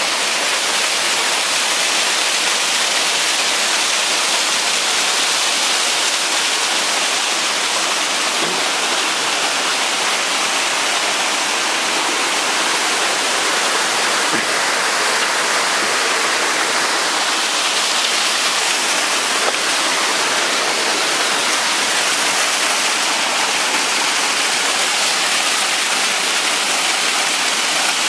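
A waterfall about 20 feet high, falling as a series of cascades, rushing loudly and steadily.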